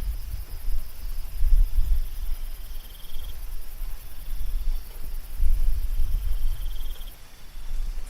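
Night insects, crickets trilling steadily at a very high pitch, with a shorter higher call that comes twice, once around the third second and again near the seventh. Under them a low rumble swells and fades, and it is louder than the insects.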